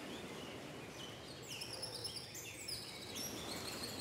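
Several birds chirping in quick, overlapping short high calls that thicken from about a second and a half in, over a steady outdoor background hiss.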